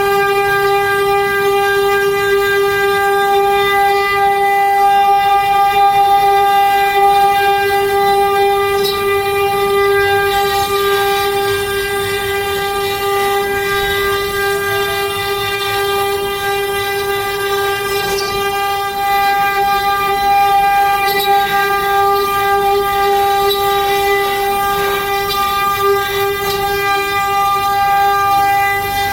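CNC router spindle running with a steady whine while its bit carves wood, with some rougher cutting noise between about ten and twenty seconds in.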